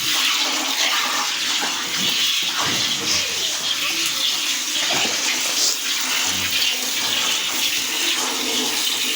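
Hand milking a cow: streams of milk squirting into a pail make a steady hissing, water-like sound.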